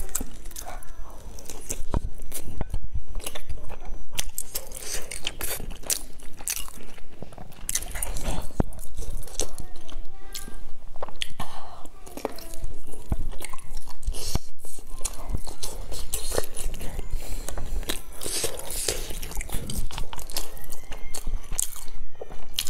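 A person biting and chewing food close to the microphone, with many small irregular mouth clicks.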